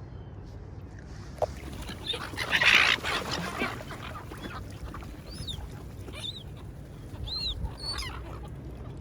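Gulls calling, several short high squawks in the second half, over a steady low background rumble. About two seconds in there is a loud rushing burst lasting about a second.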